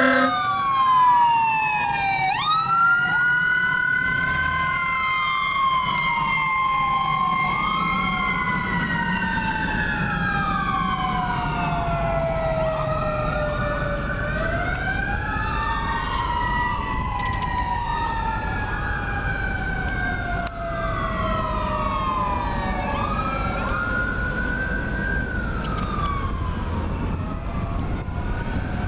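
Fire apparatus sirens, including a Federal Q mechanical siren, wailing together. Several overlapping tones rise and fall slowly, over the low rumble of the trucks. A steady air-horn blast cuts off just as it begins.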